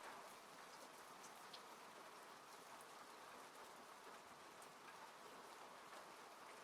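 Soft, steady rain falling on a car, heard from inside the cabin: an even patter with scattered individual drop ticks.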